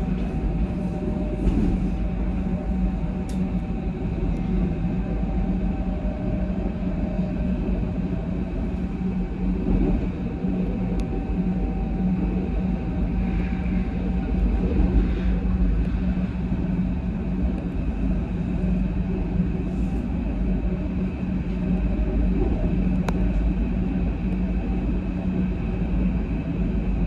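Berlin S-Bahn train running along the track, heard from inside the carriage: a steady rumble of wheels on rails with a constant low hum. A faint higher tone fades out about halfway through, and there are a few light clicks.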